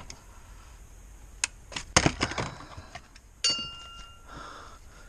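Scattered clicks and knocks of hands and tools working on a car's interior dash trim. There is a sharp knock about two seconds in, and a metallic clink with a brief ringing tone about three and a half seconds in.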